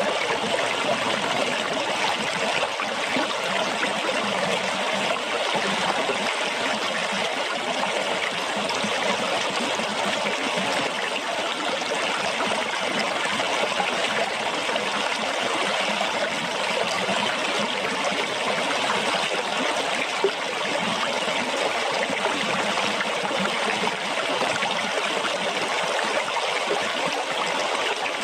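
Running water splashing and trickling steadily, like a small stream, with no change in flow. One brief tick stands out about twenty seconds in.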